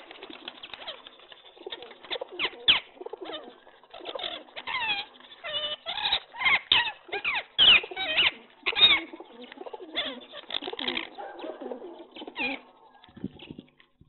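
Several birds calling: a dense run of short chirping calls that rise and fall in pitch, busiest and loudest in the middle, with wings flapping among them.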